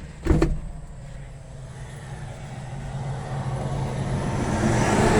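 A short knock just after the start, then a passing motor vehicle whose steady drone and road noise grow louder over several seconds, peaking near the end.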